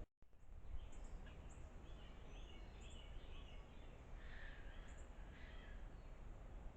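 Faint small-bird chirps and calls, scattered and overlapping, over a steady low rumble of background noise. The sound drops out briefly at the very start.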